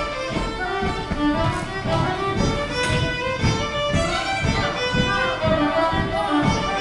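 A set of Irish jigs played on acoustic instruments: a quick run of melody notes over a regular, even beat.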